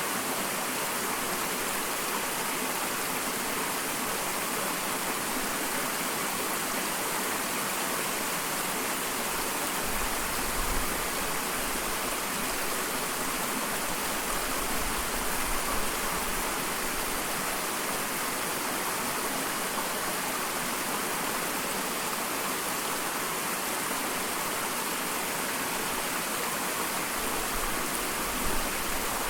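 Small waterfall: water falling and splashing in a steady, even rush, with a few brief low rumbles.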